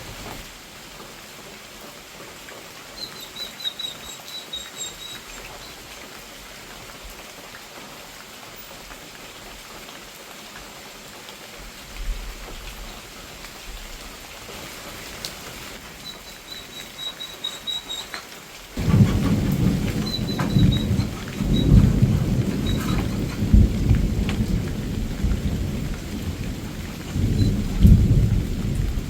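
Steady rain falling, then about two-thirds of the way in a loud, long low rumble of thunder sets in and keeps rolling.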